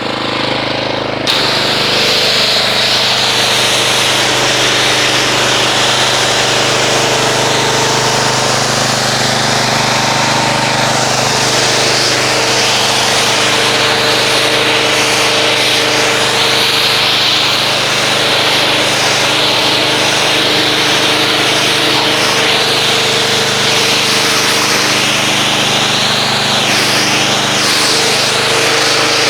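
Pressure washer running steadily with a constant motor hum, its water spray hissing as it rinses dried car-wash foam off the paint; the spray comes on about a second in.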